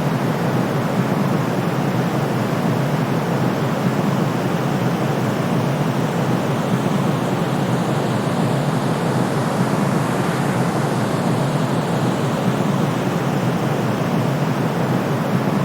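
Steady sleep white noise: an even, unbroken rushing hiss, deeper than it is bright, with no change in level.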